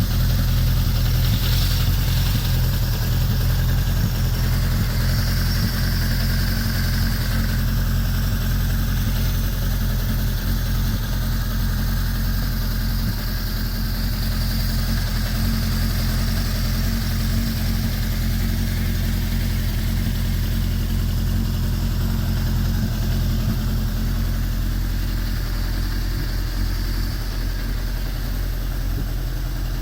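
Suzuki GSX1100S Katana's inline-four engine idling steadily through an aftermarket Asahina exhaust muffler.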